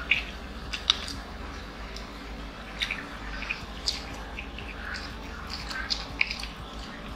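Chewing and mouth sounds of people eating chicken nuggets: scattered short wet smacks and clicks, with a low steady hum underneath.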